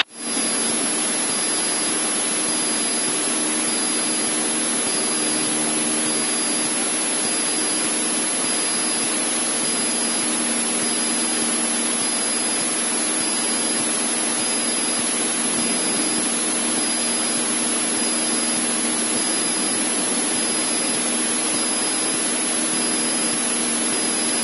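Cessna 152's four-cylinder Lycoming engine and propeller running steadily in level flight, heard inside the cockpit: a loud, even rush of air and engine noise over a low, steady hum.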